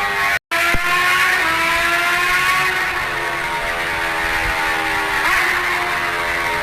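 Motorcycle engine running while riding, its pitch slowly sagging and then picking up again about five seconds in, with wind and road hiss. The sound cuts out for a split second near the start.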